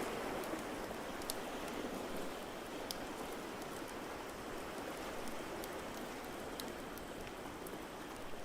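Fireplace crackling, with scattered sharp pops over a steady rushing background.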